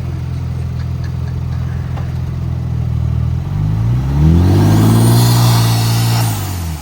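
Ford twin-turbo EcoBoost V6 idling, then revved up about three and a half seconds in, held high for about two seconds with a hiss over the engine note, and let drop back toward idle near the end.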